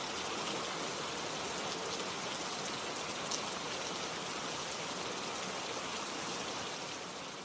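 Steady rain falling: an even hiss with faint ticks of drops, starting to fade out near the end.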